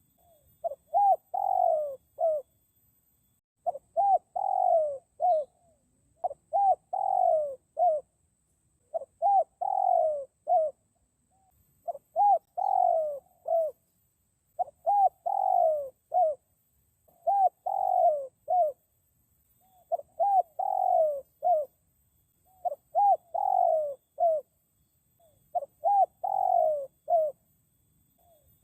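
Spotted dove cooing: the same phrase over and over, a couple of short coos, one longer coo that falls in pitch and a short closing note, about every two and a half to three seconds.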